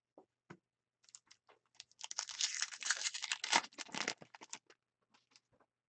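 Crinkling and tearing of a hockey card pack's wrapper: a few small clicks, then a dense crackly rustle for about two and a half seconds from about two seconds in.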